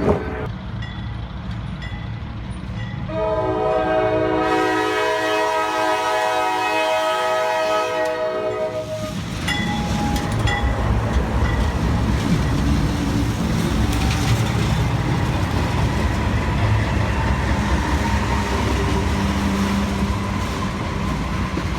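A train comes past close by. Its horn sounds a chord of several tones for about six seconds, starting about three seconds in, then the heavy train's wheels rumble and rattle steadily as it goes by.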